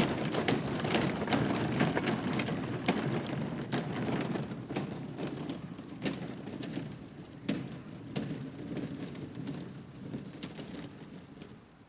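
Bicycle being ridden away up a hill: a rattling rumble with many sharp clicks and knocks, fading steadily as it moves off.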